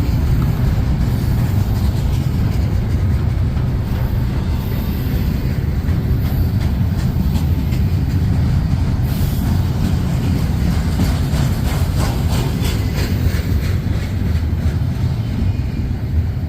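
Freight train rolling past, its cars giving a steady heavy rumble, with a run of sharper wheel clicks over the rail joints a little past the middle.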